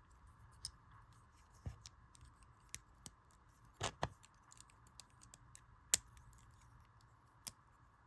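Plastic LEGO bricks and plates being handled and pressed together: scattered small sharp clicks and light rattles, a few louder snaps around the middle and about six seconds in.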